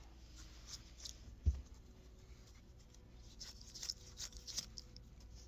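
Faint handling of small toys: one soft knock about a second and a half in, then light scattered clicks and rustles.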